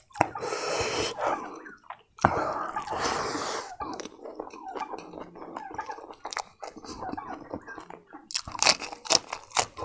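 A person chewing food with loud crunching through the first few seconds, quieter chewing in the middle, and a few sharp crunches near the end.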